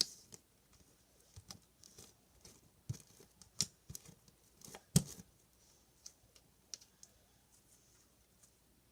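Fluffy slime being squished and stretched by hand, giving irregular sharp clicks and pops as air pockets burst, the loudest about five seconds in.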